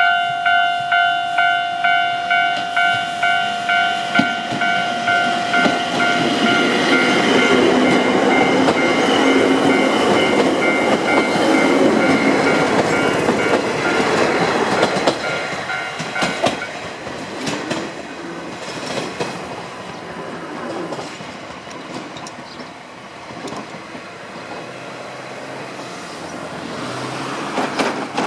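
Japanese level-crossing warning bell ringing in a steady repeated clang, about two strikes a second, as a Sangi Railway electric train pulls out and passes over the crossing. The train's noise builds to its loudest as it goes by, with wheels clicking over the rail joints, and the bell stops about halfway through. The rumble then fades as the train moves away.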